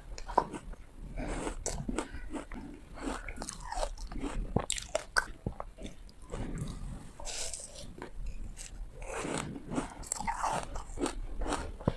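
Ice being bitten and crunched between the teeth close to the microphone: a steady run of sharp, irregular cracks and crackles.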